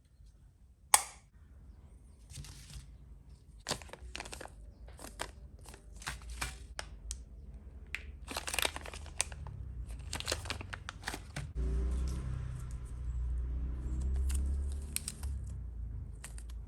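Small model-kit parts and packaging being handled during assembly. A sharp click comes about a second in, followed by scattered clicks and crinkling, with a low rumble in the last few seconds.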